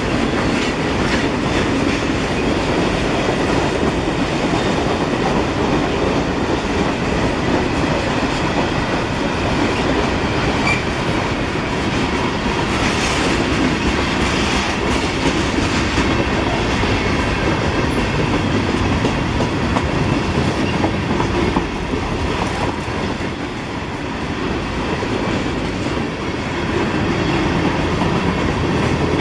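Freight train cars rolling past, their steel wheels clicking over the rail joints in a steady, continuous rumble. It eases a little about three-quarters of the way through, then picks back up.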